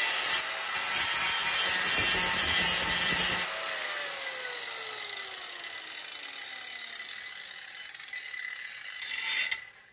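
Angle grinder with a grinding wheel grinding the edge of a worn lawnmower blade, then switched off about three and a half seconds in, its whine falling steadily in pitch as the wheel coasts down.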